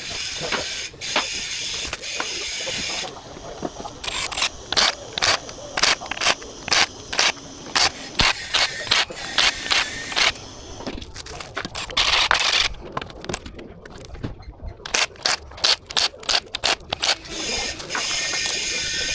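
Ratchet wrench clicking in runs of short strokes while bolts are worked loose on an engine teardown, broken by a few stretches of steady mechanical whirring.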